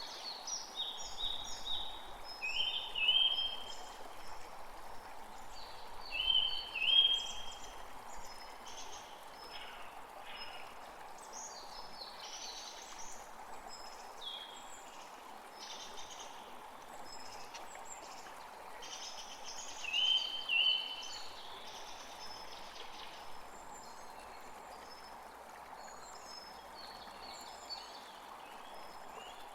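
Birds calling and singing in quick short phrases, loudest about three seconds in, about seven seconds in and again around twenty seconds, over a steady background hiss.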